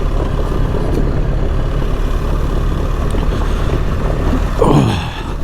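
BMW R 1300 GS boxer-twin engine running steadily under way, under a constant rush of wind and road noise. Near the end a short sound slides quickly down in pitch.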